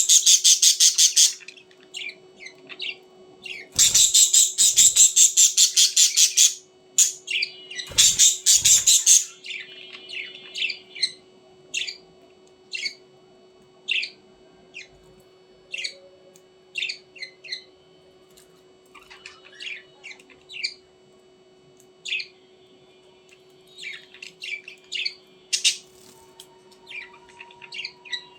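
Budgerigars calling: three loud bursts of rapid, harsh chattering squawks in the first nine seconds, then short single chirps about once a second.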